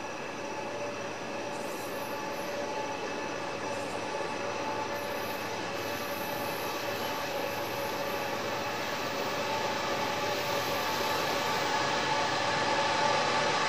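CSX train approaching, growing steadily louder, a steady rumble with several steady high whining tones over it.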